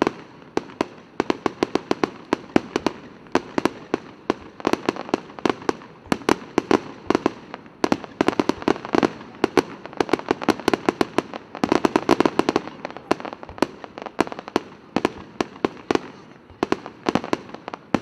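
Fireworks going off: a rapid, irregular string of sharp bangs and cracks, several a second, coming in thicker clusters.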